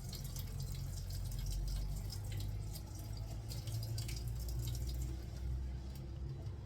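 Water dripping and splashing in a kitchen sink, scattered small ticks over a steady low hum.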